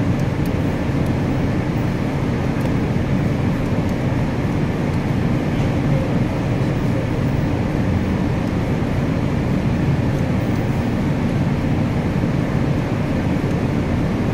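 Steady low mechanical rumble, unchanging throughout.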